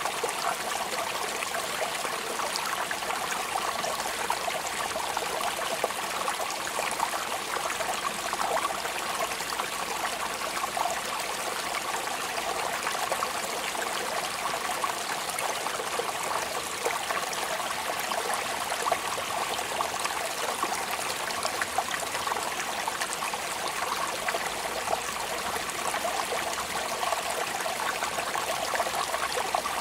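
Steady rain falling without a break: a dense, even hiss of countless fine drops.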